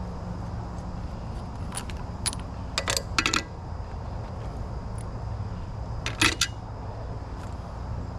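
Metal parts and tools clinking against each other in a few short clusters, about two and three seconds in and again around six seconds, over a steady low hum.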